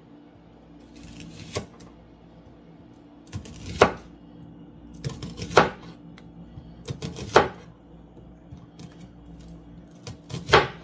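Kitchen knife dicing an onion on a cutting board: a short slicing scrape, then a sharp knock of the blade on the board, about five times at uneven gaps of roughly two seconds.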